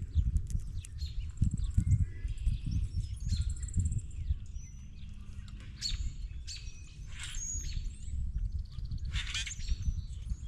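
Wild birds at a feeding table chirping and calling, with two harsher, noisier calls about six and nine seconds in, over frequent low thumps and bumps close to the microphone.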